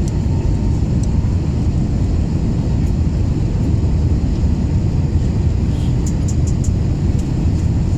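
Steady airliner cabin noise: the low, even rumble of engines and airflow heard from inside the passenger cabin in flight.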